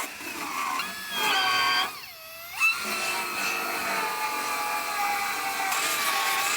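Power grinder whining as it grinds rusted sheet metal on a truck bedside. About two seconds in, its pitch drops sharply as it bogs under load, then climbs back up.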